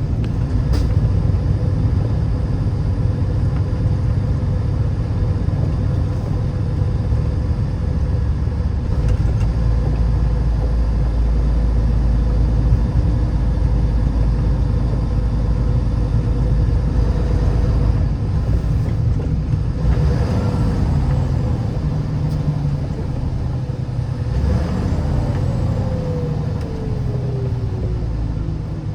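A car being driven, with a steady low engine and road rumble. Near the end a tone slowly glides down in pitch.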